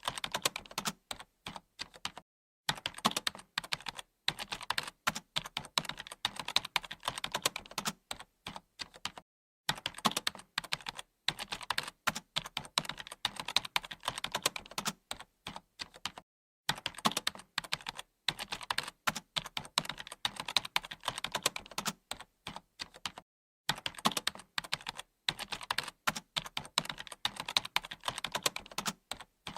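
Computer keyboard being typed on rapidly, a dense, steady patter of key clicks in long runs, broken by short pauses of about half a second roughly every seven seconds.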